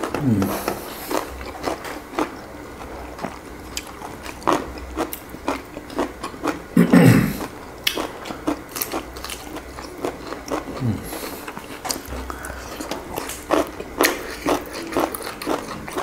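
People chewing and biting food close to the microphone: many quick wet clicks and smacks from mouths at work, with a few short hums of enjoyment.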